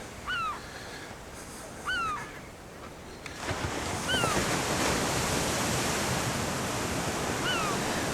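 Ocean surf washing on the shore, swelling about three seconds in and then holding steady. A bird gives a short down-slurred call four times.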